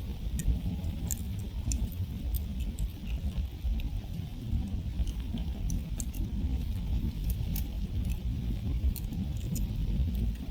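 Wood campfire crackling, with irregular sharp pops and snaps scattered throughout over a steady low rumble.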